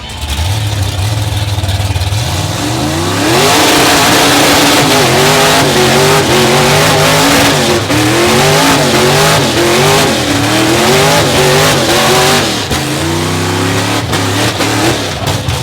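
Mega truck engine idling, then about three seconds in revving hard over and over, its pitch rising and falling about once a second under a loud hiss of spinning tires, as in a burnout. Near the end it drops back to a steadier run.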